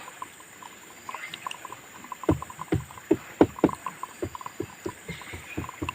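Irregular light knocks and clicks, several a second: a stirring stick knocking against its container as fibreglass resin is mixed for a boat repair.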